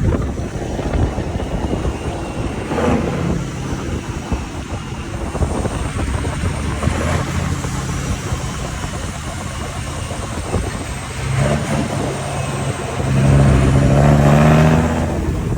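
Scania truck diesel engine running, building to a louder rev a couple of seconds before the end and then dropping off sharply.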